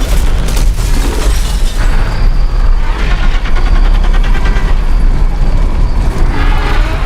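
Loud, dense trailer sound design: booming score mixed with crashes and impacts, held at full intensity with a heavy low rumble.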